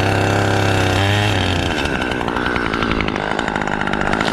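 Chainsaw engine running at a steady pitch, then changing to a rougher, rapidly pulsing sound about two seconds in.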